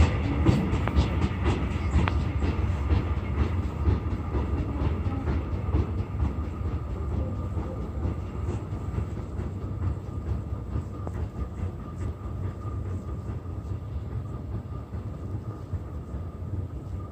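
Mugunghwa-ho passenger train rolling past as it pulls out of the station, its wheels clicking in quick runs over the rail joints. The rumble and clicks fade steadily as the train moves away, over a steady high whine.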